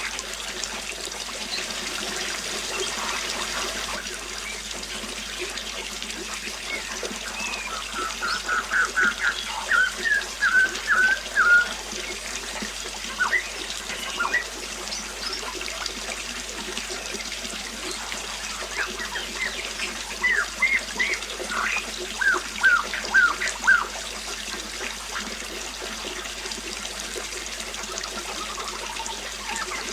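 Water trickling steadily, with a bird calling in two runs of short, sharp chirps, about eight and twenty seconds in.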